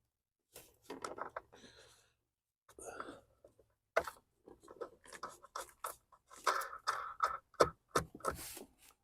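Irregular clicks, taps and rubbing from car lamp parts being handled and fitted by hand, coming quicker in the second half.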